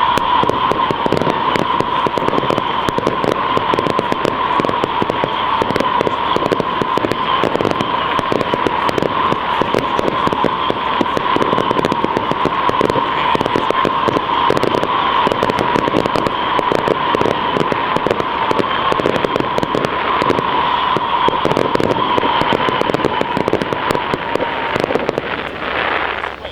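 Fireworks display: a dense, continuous crackle of many small pyrotechnic bursts, with a steady high tone running under it. It all stops suddenly near the end.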